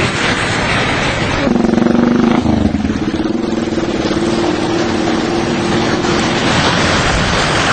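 Rushing floodwater and wind noise on the microphone. A motor vehicle's engine runs at a steady pitch from about a second and a half in, fading out near the end.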